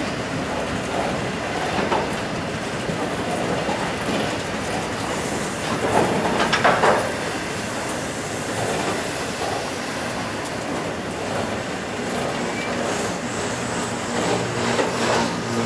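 Hopper wagons of a passing freight train rolling by: a steady rumble with wheels clattering over the track, and a brief, louder wheel squeal about six seconds in.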